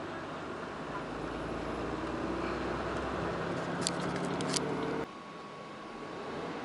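Cab interior noise of a Mitsubishi Fuso Super Great truck under way: the 6R20 inline-six diesel and road noise hum, slowly swelling. A quick run of sharp clicks comes about four seconds in, then the sound drops suddenly to a quieter steady cab hum.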